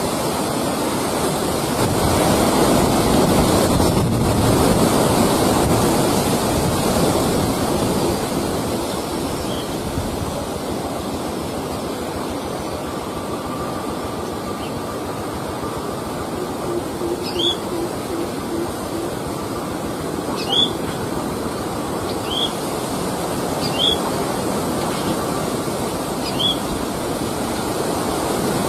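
Steady rushing background noise, with a bird giving short, sharp high chirps every couple of seconds in the second half.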